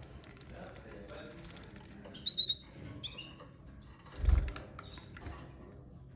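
Small cage bird chirping in short, quick runs of high notes, about two and three seconds in, followed a little after four seconds by a loud low thump.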